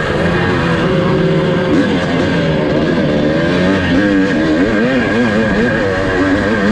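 1982 Husqvarna 430 two-stroke dirt bike engine revving up and down repeatedly as it is ridden hard, the pitch rising and falling every half second or so.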